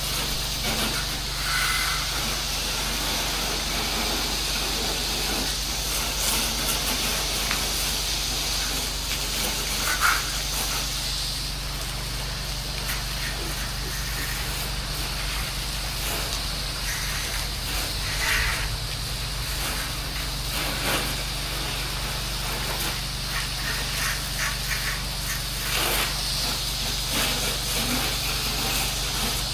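Pressure-washing rig running with a steady motor hum under the hiss of water spray from the wand. The spray hiss stops a little over a third of the way in and starts again near the end.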